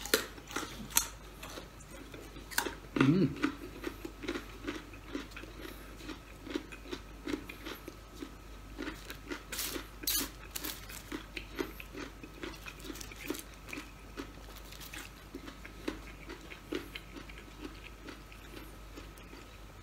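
Close-up mouth sounds of a person chewing crispy fried food, a chicken nugget and french fries, in a steady rhythm of short chews with a few sharper crunches.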